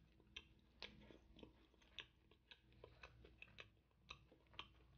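Faint chewing: irregular small clicks of a mouth working on food.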